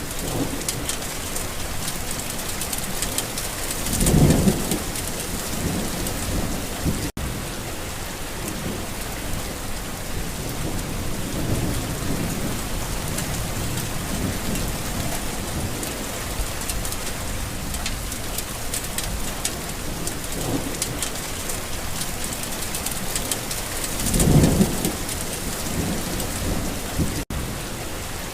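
Steady rain falling on a garden, with two rolls of thunder, one swelling about four seconds in and another near the end. The sound cuts out for an instant twice.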